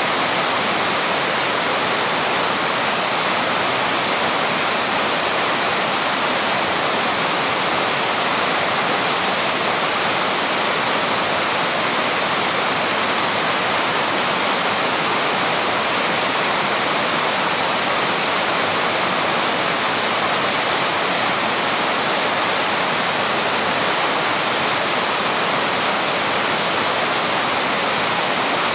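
Small waterfall pouring steadily over rocks: an even, unbroken rush of falling water.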